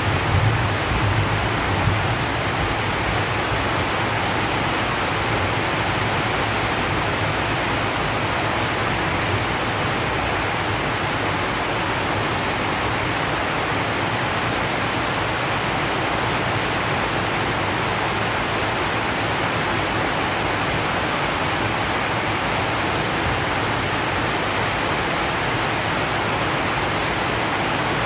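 Steady rain falling on a zinc sheet roof, an even hiss. A low rumble of thunder dies away in the first couple of seconds.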